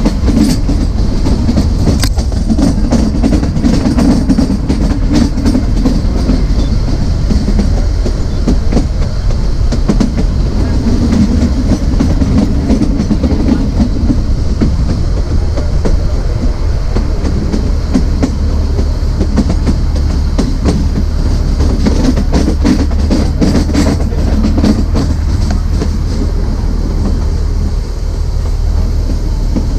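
Narrow-gauge (2 ft 6 in) passenger train rolling along the track: a steady rumble, with many short clicks and clacks from the wheels on the rails.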